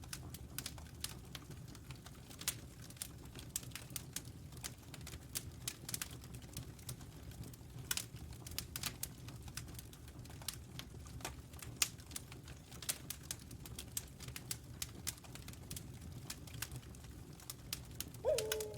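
Wood fire crackling with irregular sharp pops over a steady low rumble. Near the end a wolf's howl begins, a long note that drops quickly and then holds steady.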